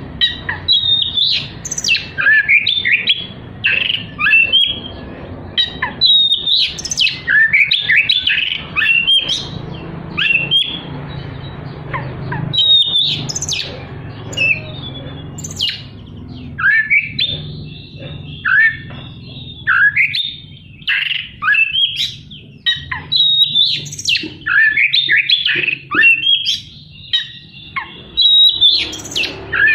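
Oriental magpie-robin (kacer) singing a loud, varied song of rapid sharp notes and quick falling whistles, packed with mimicked fill phrases.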